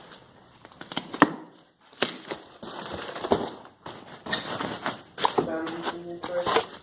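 Junk being handled and shifted: a sharp knock about a second in, then scuffing and rustling of objects being moved, with a short voice-like sound near the end.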